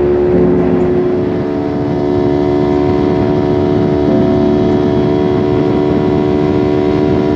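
Motorcycle engine running at a steady cruising speed with a constant drone, over a rumble of wind and road noise.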